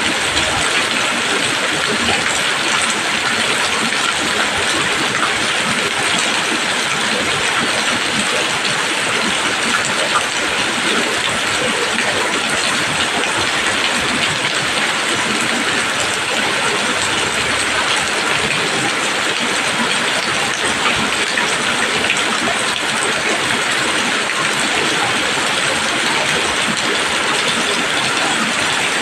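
Steady heavy rain falling on leaves, a dense, even hiss of drops with no letup.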